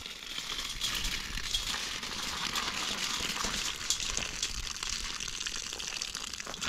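Steady rustling and crackling made of many small crisp ticks, like dry material being handled or trodden.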